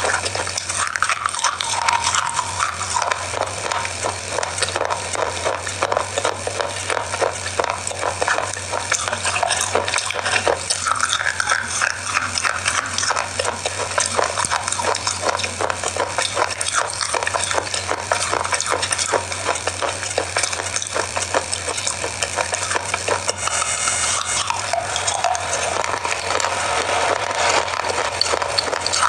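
Close-miked crunching and chewing of a chocolate cookie bar: a continuous run of crisp crackles and clicks.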